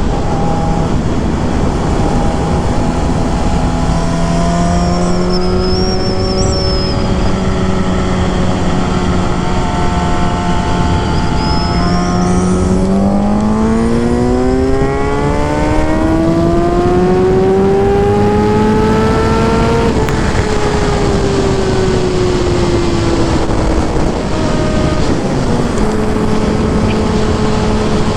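Suzuki GSX-R750 inline-four engine and exhaust running at a steady pitch. About midway the revs climb smoothly for several seconds, then ease back down and settle steady again.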